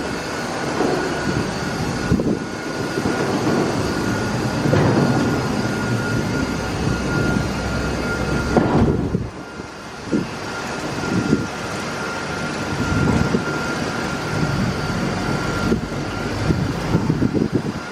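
Automatic car wash tunnel equipment running: a steady mechanical noise with a thin high whine above it and uneven low surges, easing briefly about nine seconds in.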